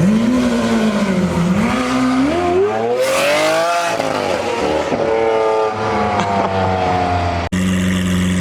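Lamborghini Aventador SV's V12 revving through a straight-piped, catless exhaust. The revs climb in steps to a peak about three and a half seconds in and fall back. Near the end the sound cuts abruptly to a steady idle.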